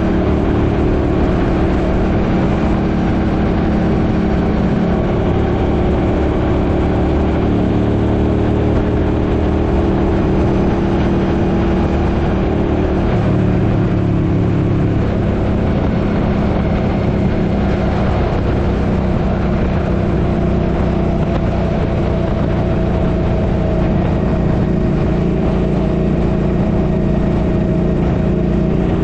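Suzuki Boulevard M50's 805 cc V-twin engine running steadily under way, its note shifting to a different pitch about halfway through, over wind rush.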